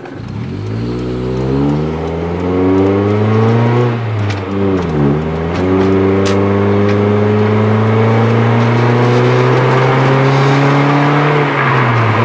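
Scion tC's four-cylinder engine heard from inside the cabin, accelerating hard from a standstill. Its pitch climbs for about four seconds, dips briefly at an upshift, then climbs slowly and holds before dropping away near the end as the throttle is lifted.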